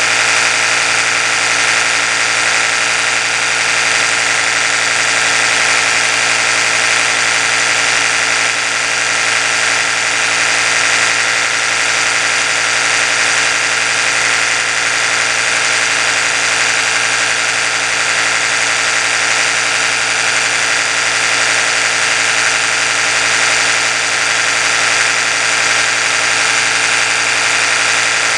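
Oral-B electric toothbrush running continuously with a steady, unchanging buzz.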